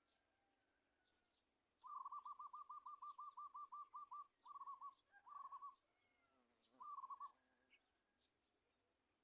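Faint bird call: a fast run of about a dozen repeated hooting notes, about five a second, then three short bursts of the same notes, with faint high chirps of other birds behind.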